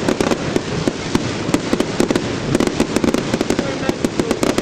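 Fireworks going off: a dense, irregular string of sharp cracks and bangs, several a second without a break.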